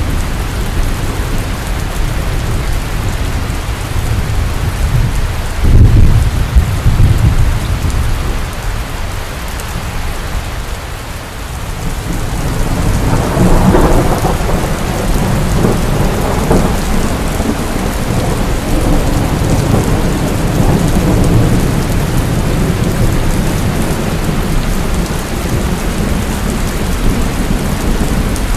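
Heavy rain falling steadily, with a sudden loud clap of thunder about six seconds in. From about halfway a long, low rumble of thunder builds and rolls on through the rest of the rain.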